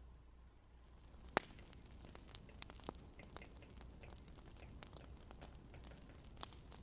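Wood fire crackling, with small pops at irregular intervals and one louder pop about a second and a half in.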